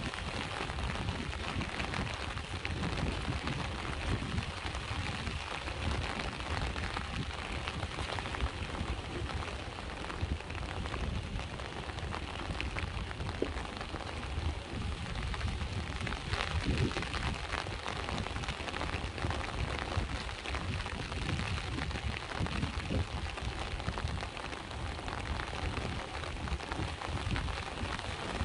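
Steady rain pattering down, many small drops ticking, over a low continuous rumble.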